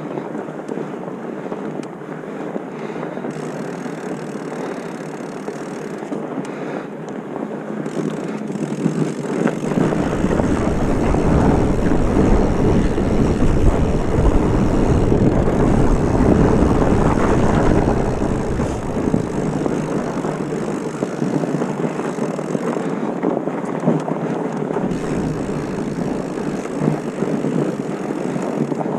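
Wind rushing over the microphone with a steady rush of noise. A low buffeting rumble sets in about ten seconds in, eases just before twenty seconds, and comes back a few seconds before the end.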